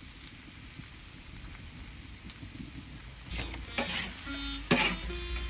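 Pork curry sizzling in a pot, with a utensil stirring and scraping through it in several strokes from about three seconds in.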